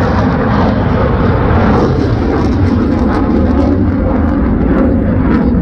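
F-35B fighter jet flying past: a loud, steady, deep rumble of jet engine noise.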